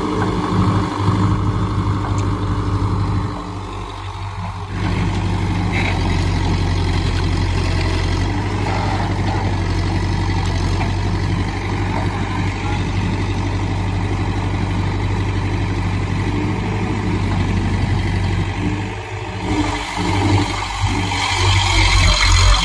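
Heavy diesel engine running steadily, dropping off briefly about four seconds in and growing louder near the end.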